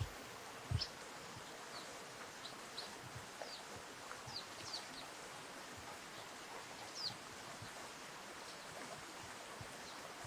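Scattered short, high, falling chirps of small birds over the steady rush of river water, with a low thump about a second in.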